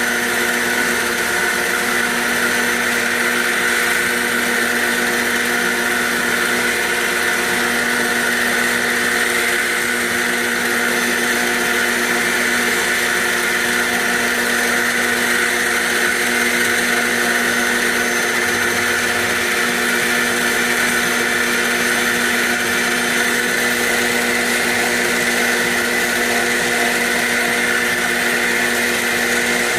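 CNC machine spindle running while the machine cuts a part on a roughing pass. It makes a steady whine that never stops.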